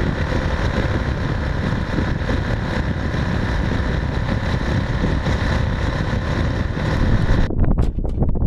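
Motorcycle engine running with steady road and wind rush, as heard from a riding bike. About seven and a half seconds in it cuts abruptly to a thinner, quieter sound.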